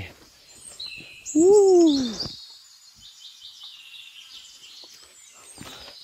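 Forest birds chirping in high-pitched calls, with one loud drawn-out call about a second and a half in that rises and then falls in pitch.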